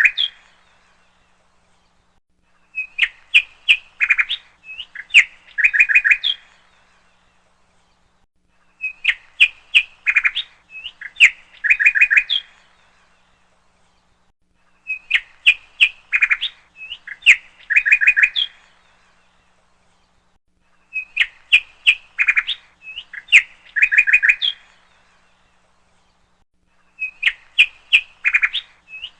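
Birdsong on a repeating loop. A burst of about three and a half seconds of quick chirps and short trills recurs the same way every six seconds or so.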